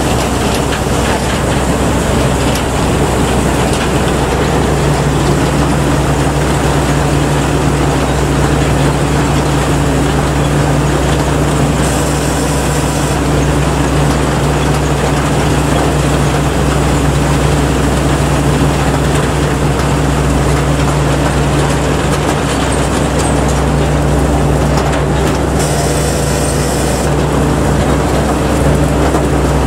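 Kaset Pattana combine harvester running steadily while harvesting rice: a continuous loud engine drone with the noisy rush of the machinery.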